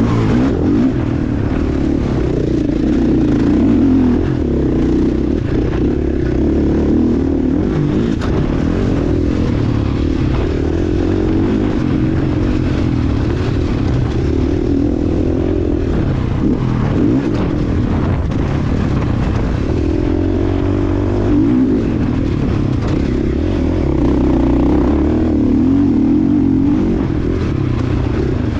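Motocross motorcycle engine running hard, its pitch rising and falling continuously as the throttle opens and closes.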